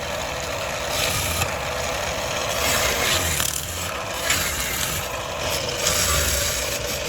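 Motor-driven workshop tool working animal bone for button making: a continuous rasping, grinding noise over a steady motor hum.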